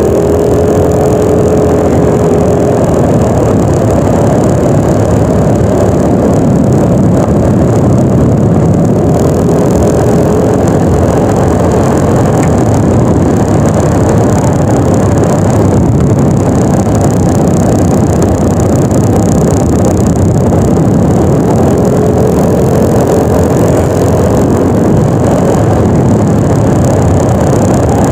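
Yamaha NMAX 155 scooter on the move: its single-cylinder engine runs under a heavy, steady rush of wind on the microphone, and the engine note comes through faintly a few times.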